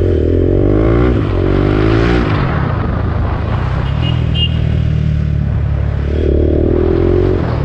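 BMW G310R's single-cylinder engine through an Akrapovic full-system exhaust under way. Its pitch rises in the first second, drops about two seconds in, runs steady, then climbs again near the end.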